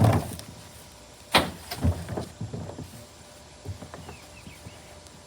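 Several hollow thumps and bangs from a plastic trash can being knocked about. The loudest come at the very start and about one and a half seconds in, with a few smaller knocks after.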